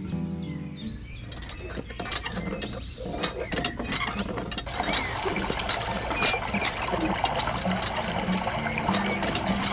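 Small mechanism clicking and rattling in quick, uneven strokes, then from about halfway through, running water with continued clicks, as from a miniature hand pump being worked until water flows.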